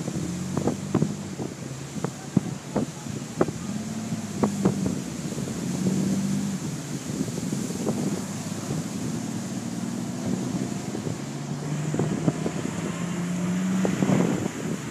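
A motor running with a low steady hum, under wind buffeting the microphone, with scattered short knocks and thumps.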